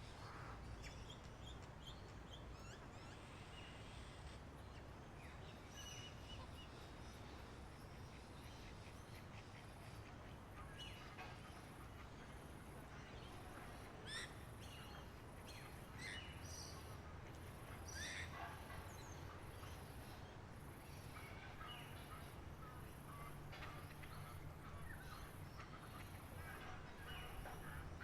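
Wild birds chirping faintly and sporadically, with a few quick sweeping calls, over a steady low rumble. From about halfway through, a very high note repeats at an even pace.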